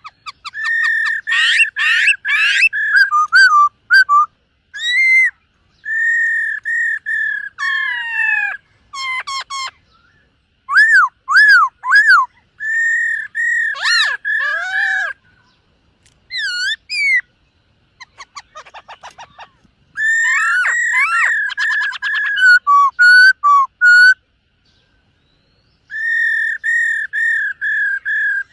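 Black-throated laughingthrush (khướu bạc má) singing: loud, clear whistled phrases made of runs of quickly repeated notes on one pitch and swooping up-and-down notes, in bursts with short pauses, with a softer rapid rattle about two-thirds of the way through.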